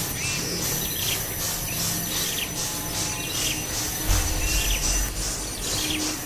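Insects, crickets or cicadas, chirping in an even pulsing rhythm of about two pulses a second, with short bird chirps mixed in and a low thump about four seconds in.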